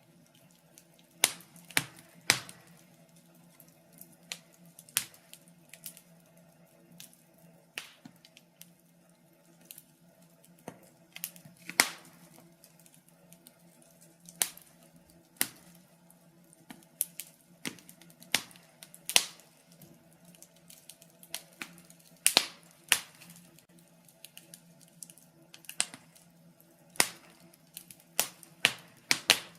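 Logs burning in a fireplace, crackling with irregular sharp pops, sometimes several in quick succession, over a faint steady low hum.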